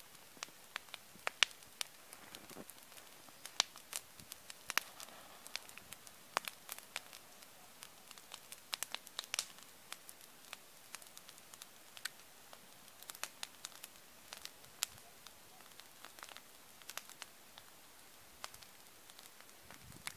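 Wood bonfire crackling: irregular sharp pops and snaps of burning wood over a faint hiss of flame, with a few louder snaps standing out.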